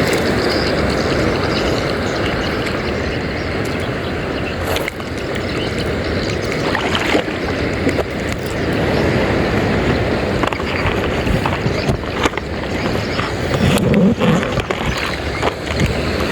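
Steady rushing noise of wind and water around a small fishing boat at sea, with a few short knocks and clicks here and there.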